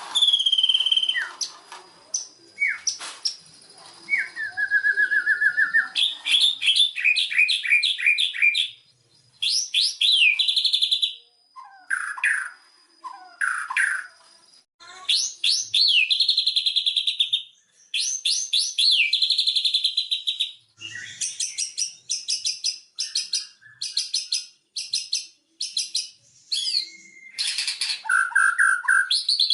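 White-rumped shama (murai batu) singing a loud, varied song. It mixes clear whistled notes, fast runs of repeated notes and chattering phrases, separated by brief pauses.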